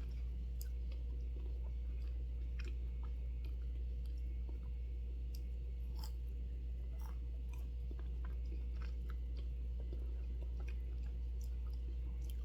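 Close-up eating sounds of a fruit sorbet ice cream bar: scattered soft bites, clicks and chewing, over a steady low hum.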